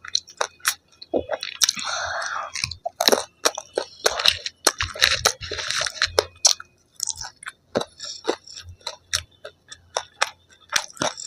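Close-miked chewing of fried Indo-Chinese street food: crunchy bites and wet mouth sounds, with many irregular sharp clicks and short noisy crunches.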